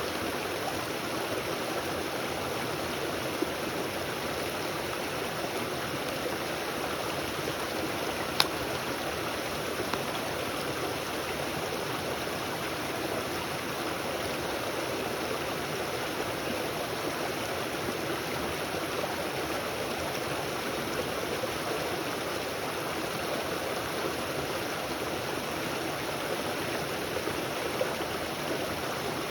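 Steady rushing of a flowing stream, with a few single sharp clicks, the loudest about eight seconds in.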